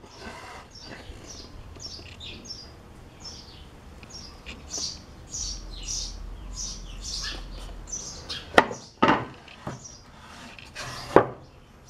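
A bird chirping over and over, a string of quick chirps that each slide downward. Three sharp knocks follow in the last few seconds.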